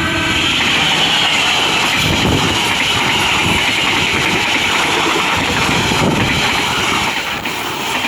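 A train passing close by at speed, a loud steady rush and rumble of wheels on rails.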